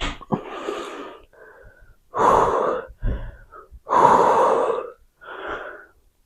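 A man breathing hard from exertion during dumbbell arm exercises, with about five loud gasping breaths in quick succession.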